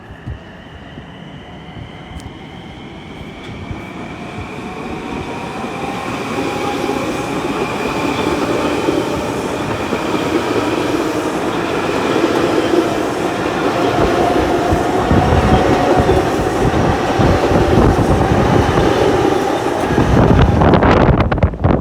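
A train approaching and growing steadily louder, with a high whine that slides slowly down in pitch. Near the end its wheels clatter over the rail joints as it reaches the microphone.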